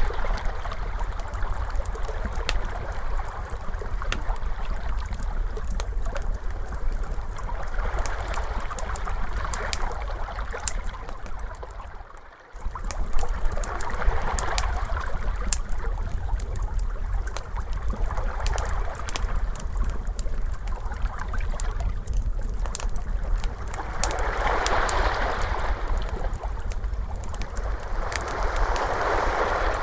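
Crackling fire, with a steady scatter of sharp pops and snaps, over ocean waves washing in and out in slow swells every few seconds. The sound dips out briefly about twelve seconds in.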